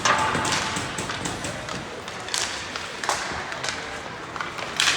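Ice hockey play: sharp taps and thuds of sticks, puck and boards, with short scraping hisses of skates on the ice right at the start, about halfway through and near the end.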